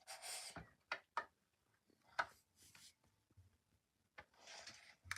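Small plastic doll and toy pieces being handled: a few light clicks and taps, the sharpest about two seconds in, between soft rustles.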